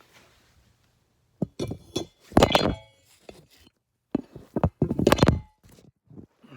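Metal clanking and clinking from tools and front suspension parts being handled during reassembly. The knocks come in two clusters, each with a brief ring, about a second and a half in and again about four seconds in.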